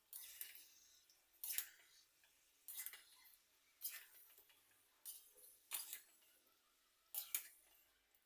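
A spoon stirring and scraping frying onions in a cooking pan, about seven short strokes roughly a second apart.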